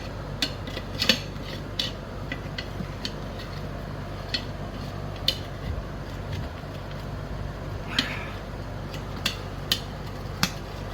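Irregular metallic clinks and taps of tools against a scooter's steel wheel rim as the inner tube is worked out, about ten strokes, over a steady low hum.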